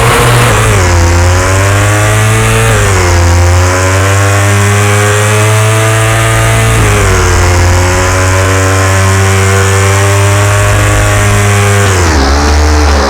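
KTM Duke 390's single-cylinder engine running hard, its revs climbing slowly and then dropping sharply about three seconds in, about seven seconds in and near the end.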